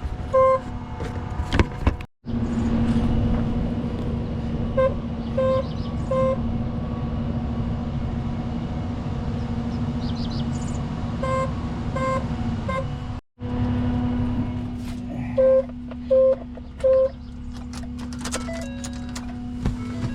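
A crashed car's horn blaring in short groups of three blasts every few seconds, over a truck engine running steadily; the horn keeps going on its own after the collision.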